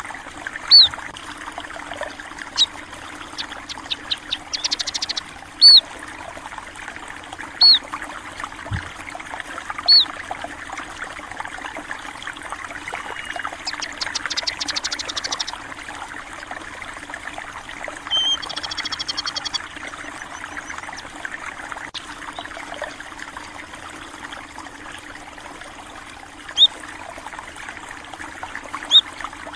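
Water trickling and running steadily in a small stream, with small birds giving short, high chirps here and there and a few brief rapid trills.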